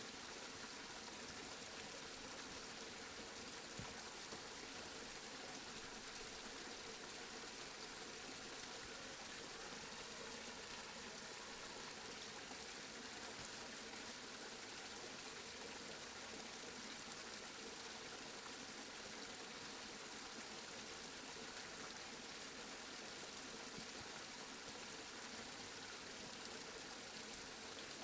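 Steady rainfall, a constant even patter with no thunder.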